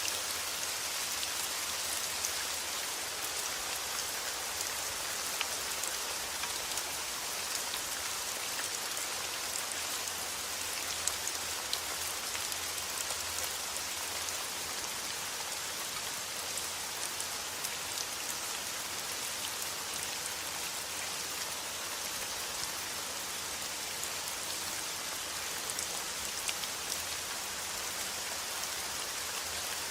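Steady rain falling on a surface, with many small drop ticks over an even hiss.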